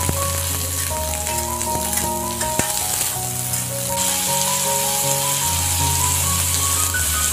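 Diced peas, carrots and spring onions sizzling in a wok, a steady hiss, with background music playing a melody over it.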